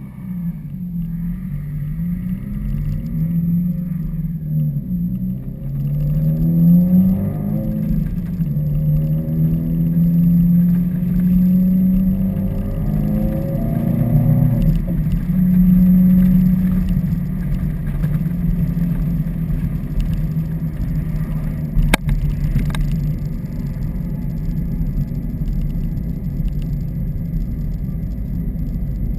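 2015 Subaru WRX's turbocharged flat-four running through axleback exhaust with the mufflers deleted. The revs rise twice under acceleration, then hold steady while cruising. One sharp click comes about two-thirds of the way in.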